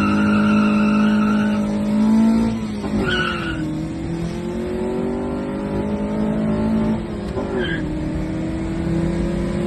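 Car engine accelerating hard through the gears, its pitch climbing and then dropping sharply at gear changes about three seconds in and again about seven and a half seconds in. A high-pitched whine sounds over it for the first second and a half.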